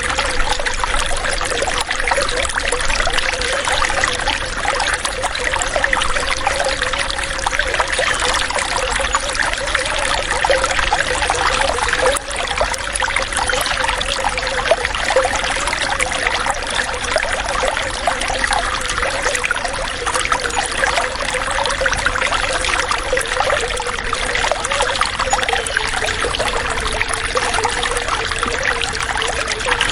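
Water running steadily: a continuous trickling flow with a faint steady tone under it.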